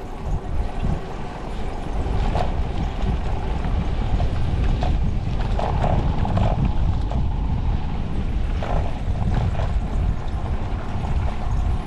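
Riding noise from a bicycle in motion: a steady low rumble of wind on the microphone and the road, with scattered light clicks and rattles.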